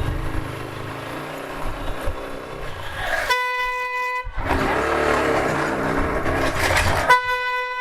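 A vehicle horn sounds twice in traffic, each a steady single-pitched blast about a second long, the second a few seconds after the first. Between the blasts there is a low rumble of road and wind noise from riding.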